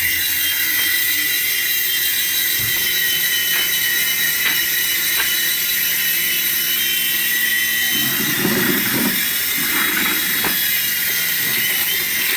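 Small electric toy motor running with a steady high-pitched whine, with a few light ticks and some low rumbling near the end.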